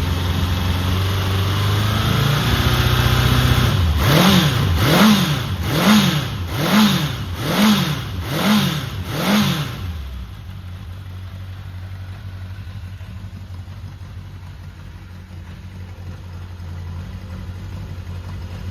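Honda CB750F's air-cooled DOHC inline-four idling, then blipped about six times in quick succession, the revs rising and falling about once a second, before settling back to idle. The engine is advertised as free of abnormal noise.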